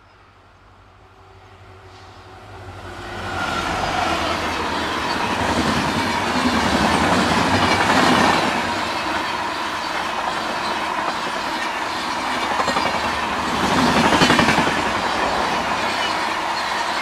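A train passing at high speed. Its sound builds over the first few seconds into a steady rush of wheels on rail with clickety-clack from the coaches, swelling louder about halfway through and again near the end.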